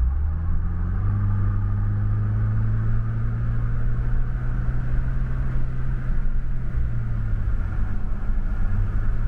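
Ford Bronco's engine running through an XForce VAREX valved exhaust at steady, low revs, giving a constant low exhaust note. The pitch rises slightly about a second in and eases a little near the end.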